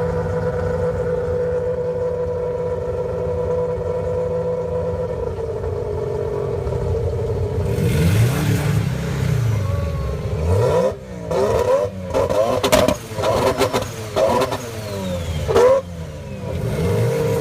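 Big-turbo 20B three-rotor rotary engine in a Mazda RX-7 idling, then revved up and down twice, then held on the two-step launch limiter, stuttering with sharp bangs and pops, before settling back to idle near the end.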